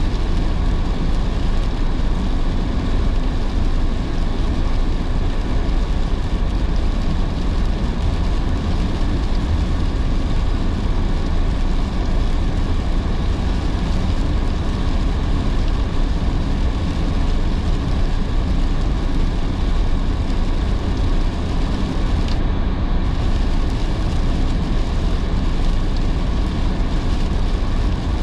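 Steady road and tyre noise of a car driving on wet roads in heavy rain, heard inside the cabin, with a deep even rumble. A single faint click about three-quarters of the way through.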